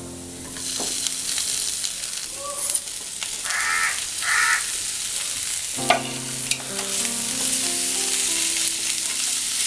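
Boiled beef liver pieces dropped into hot oil with fried onions and spices in a kadai, sizzling steadily as they are stirred with a spatula. The sizzle starts about half a second in, when the liver hits the pan.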